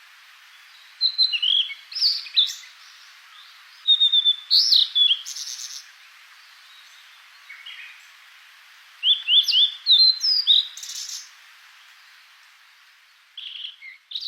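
A songbird singing in short bursts of high chirps and quick trills, with pauses of a few seconds between phrases, over a steady hiss.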